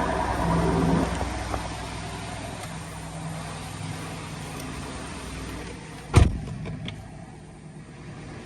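Hellcat Redeye's supercharged 6.2-litre HEMI V8 idling after a cold start, growing quieter over the first few seconds. About six seconds in there is a single sharp thump, the loudest sound, followed by two lighter clicks.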